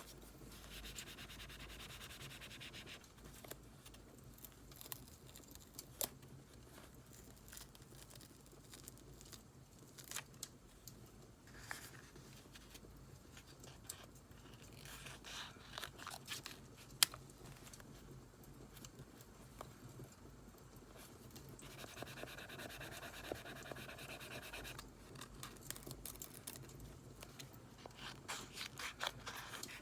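Close-up paper journaling sounds: paper scratching, rubbing and being cut in a few separate stretches, with scattered sharp crackles of a wood fire throughout.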